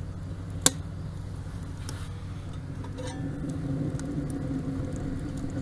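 Rocket stove fire burning with a steady low roar, and one sharp crack from the burning wood less than a second in.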